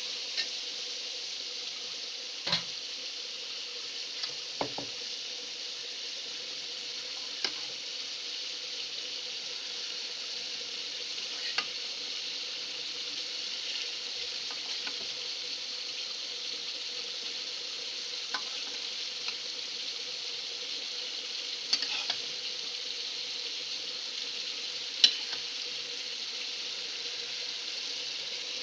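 Spiced pointed gourd (potol) curry sizzling steadily in oil in a pot as pieces of fried rui fish are added. Now and then a sharp knock of the utensil or the fish against the pot, the loudest near the end.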